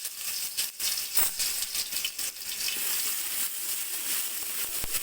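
Ginger-garlic paste sizzling in hot oil in a kadai, a steady hiss with scattered clicks.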